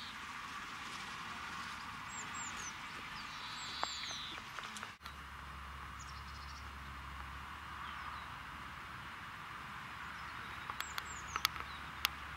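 Outdoor garden ambience: small birds chirping, short high falling calls that repeat every few seconds, over a steady hiss. A few sharp clicks come near the end.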